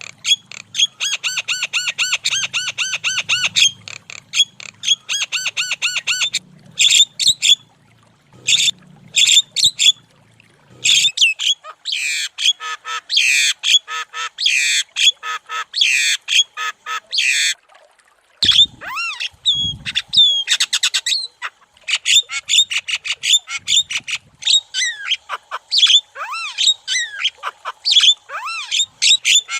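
Javan myna (jalak kebo) calling vigorously and without pause: rapid runs of repeated harsh notes, mixed with squawks, chattering and short whistled glides.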